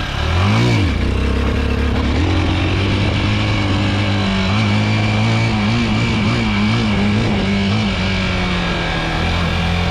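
A Chinese 250 cc dirt bike's engine revs up and drops back once, briefly, then runs at a steady speed with small rises and falls in the revs. The owner says this bike lacks power, which he puts down to its carburetor.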